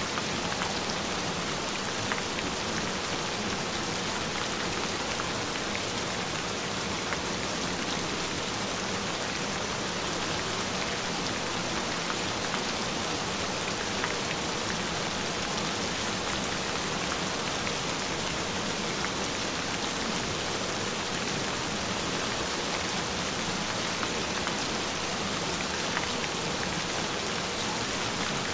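Steady, gentle rain falling on a surface, with scattered small drop ticks and a faint steady tone held underneath it.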